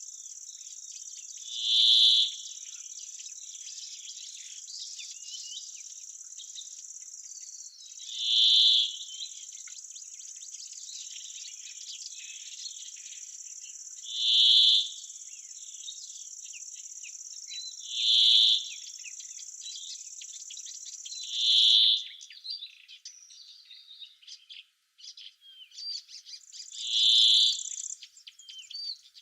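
Crickets trilling in a steady, high-pitched band that breaks off about two-thirds of the way through and returns briefly near the end. Over it, a louder short call repeats six times, four to six seconds apart, with faint scattered chirps between.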